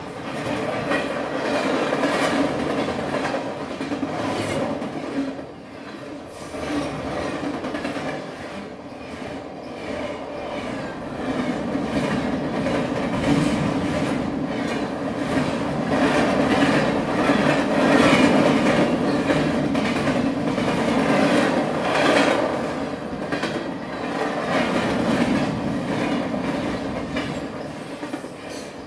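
A continuous rumbling, clattering noise, thick with short clicks, that swells and fades every few seconds.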